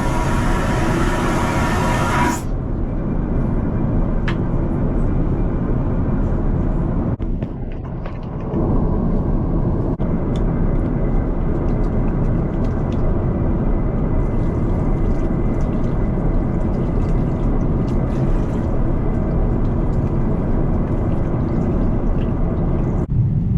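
Steady low rumble of a moving vehicle's interior. It changes abruptly about two seconds in, dips briefly around seven to eight seconds, and changes again near the end.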